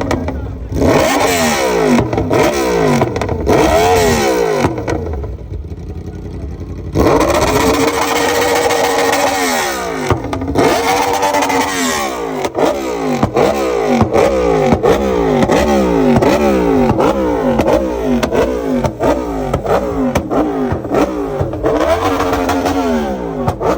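Naked motorcycle engine being revved through its exhaust in repeated throttle blips, the pitch jumping up and falling back about once a second, with a longer held rev about seven seconds in that slowly dies away.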